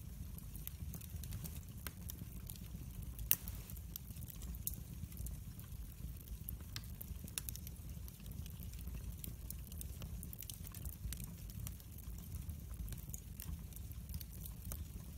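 Wood fire in a fireplace crackling, with frequent sharp pops over a low steady rumble; one louder pop about three seconds in.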